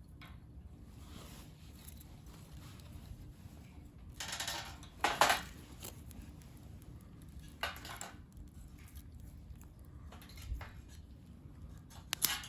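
A few short clattering and rustling handling sounds of small objects, the loudest about five seconds in and another pair of clicks near the end, over a steady low rumble.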